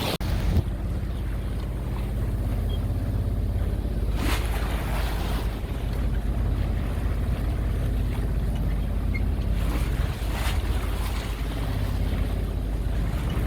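A sailboat's diesel engine runs with a steady low drone under the rush of water along the hull. Swells of water and wind wash rise over it twice, about four and ten seconds in.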